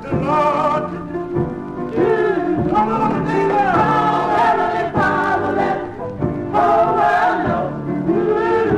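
Black gospel choir singing with a band, played from an original 45 rpm record: several voices holding and bending sung lines over a steady accompaniment.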